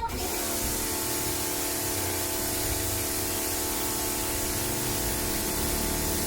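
Pressure washer spraying water: a steady hiss with a steady motor hum underneath.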